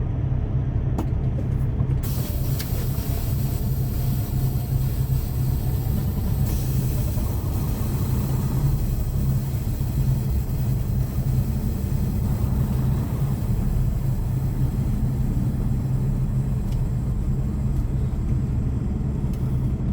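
Semi truck's diesel engine running with a steady low drone, heard from inside the cab. An even hiss sits over it from about two seconds in until just before the end.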